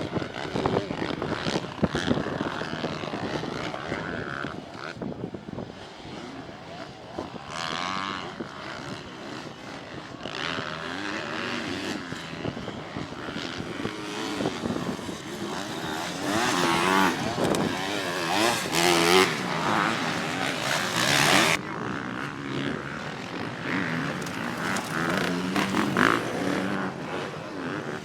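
Motocross motorcycle engines revving hard and easing off, their pitch rising and falling again and again. They are loudest in a run of passes a little past the middle.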